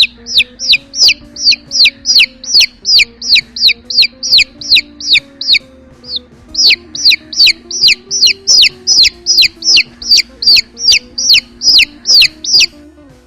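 A bird peeping over and over: loud, high chirps that each slide downward, about three a second, with a short break midway. Faint background music plays underneath.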